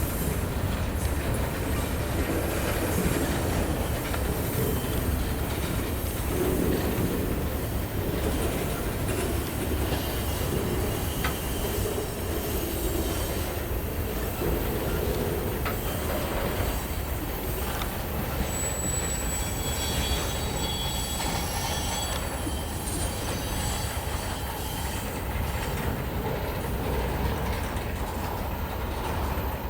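Train cars rolling steadily past with a continuous rumble of wheels on rail. A thin, high wheel squeal rises over it about two-thirds of the way through.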